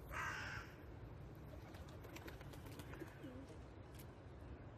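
Birds: a short harsh call right at the start, then faint low cooing a couple of seconds in, over a steady low background rumble.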